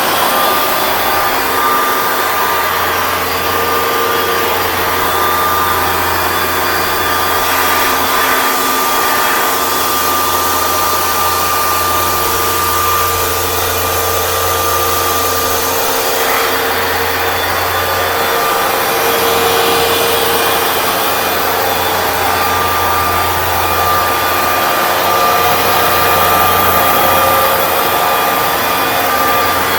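Hoover Dual Power Max Pro upright carpet cleaner running steadily, its motor whining and humming as it is pushed and pulled over a rug, with small shifts in pitch through the strokes.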